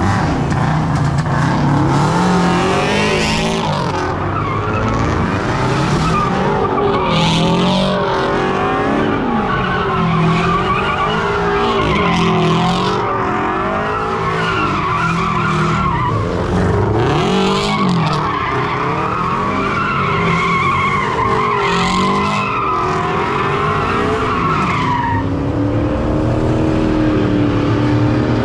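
A car doing donuts: its engine revs up and down at high rpm while the tires squeal and skid in repeated surges about every four to five seconds. Near the end the engine settles into a steady idle.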